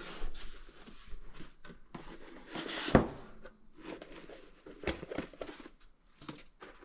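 Objects being handled: irregular rustling and scattered light knocks, with one sharp, louder knock about three seconds in.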